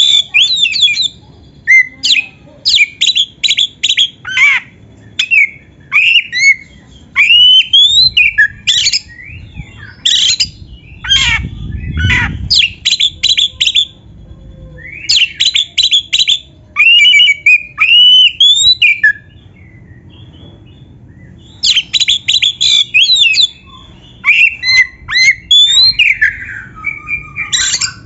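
Oriental magpie-robin (kacer) singing loudly in fast bursts of sharp chattering notes mixed with rising and falling whistles, with short breaks between phrases and a longer pause about two-thirds of the way through. A low rumble sits under the song about twelve seconds in.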